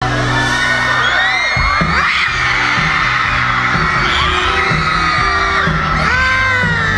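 Concert crowd screaming and whooping over loud music from the venue's speakers, many high voices sliding up and down at once. A low pulsing bass line comes in about a second and a half in.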